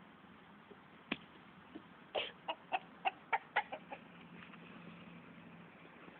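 Chickens clucking: a quick run of about eight short clucks lasting about two seconds, starting about two seconds in, with one sharp click a second before.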